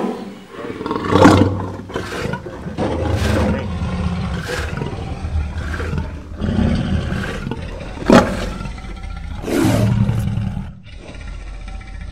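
Lions growling over raw meat in a series of deep, rough growls about one to one and a half seconds apart, the loudest a little after the start and again at about two-thirds of the way through.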